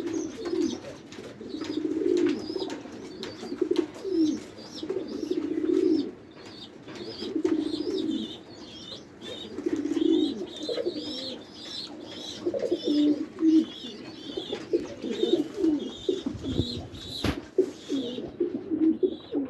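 Several domestic pigeons cooing, overlapping phrases about a second long, with higher chirping calls and scattered light clicks. There is a single sharp knock near the end.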